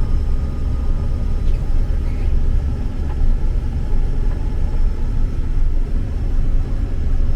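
Claas Lexion 8600 combine running steadily while harvesting soybeans: a low, even rumble with a faint steady whine above it.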